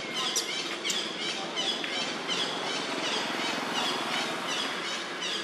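Small birds chirping, short high notes repeating about twice a second, over a steady outdoor background hum.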